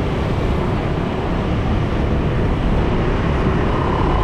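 Steady rushing noise of a motorcycle ride through city traffic: the bike's running and wind on the move blend into one even, low-heavy roar.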